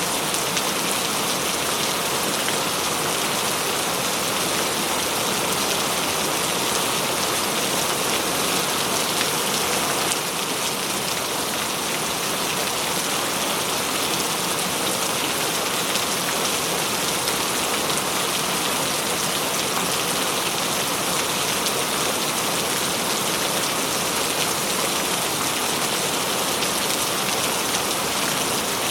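Steady heavy rain, an even hiss of falling drops that dips slightly about ten seconds in.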